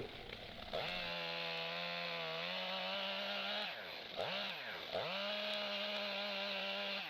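Stihl MS 661 two-stroke chainsaw running at high revs. It drops off and revs back up twice in the middle, then eases off near the end.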